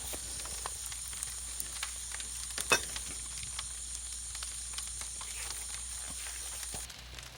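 Food sizzling in a pan over a wood fire, a steady hiss dotted with small crackles and one sharp pop about two and a half seconds in. The sizzle cuts off shortly before the end.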